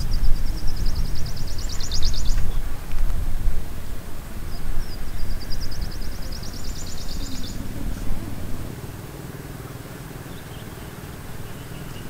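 A bird sings a fast, high trill of rapidly repeated notes twice, each phrase lasting a couple of seconds. A low rumble underneath drops away about two-thirds of the way through.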